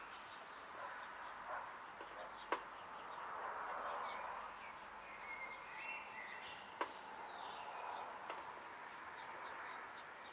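Faint bird chirps over a steady hiss. Two sharp clicks stand out, about two and a half and seven seconds in.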